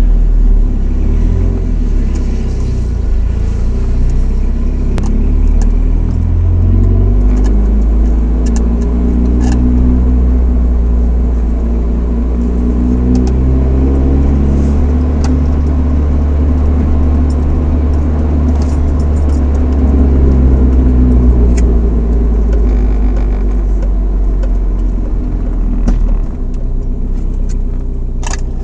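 Chevrolet S10's 2.2-litre four-cylinder through a Flowmaster 40 dual exhaust, heard from inside the cab while driving, its note rising and falling as the truck pulls through the gears. A slight exhaust leak near the stock manifold, which the owner says may make it sound a little hissy and raspy. Scattered ticks and rattles from the cab sit over the engine.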